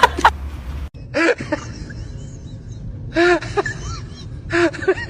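Short pitched vocal calls, each rising and falling, in three quick groups: about a second in, just after three seconds, and near the end.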